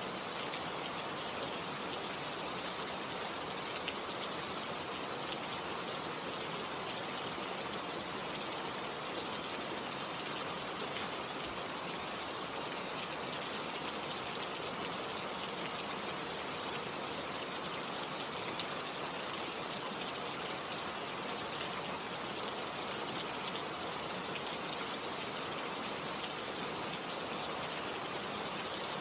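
Steady rain falling, an even hiss with faint scattered drop ticks and no change.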